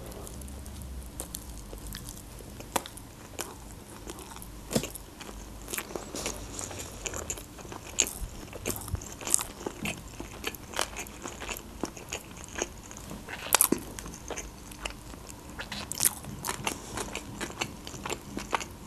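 Close-miked chewing of a mouthful of baked sushi roll: a steady run of wet mouth clicks and soft crunches, with a few sharper, louder clicks.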